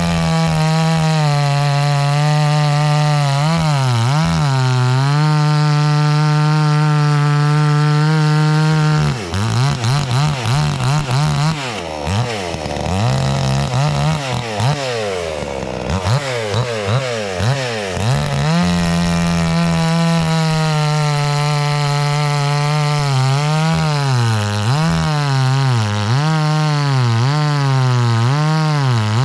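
Two-stroke gas chainsaw of about 60 cc at high revs, cutting through a log, its note dipping now and then as the chain loads up in the wood. For several seconds near the middle the engine revs up and down rapidly, before settling back into a steady cut.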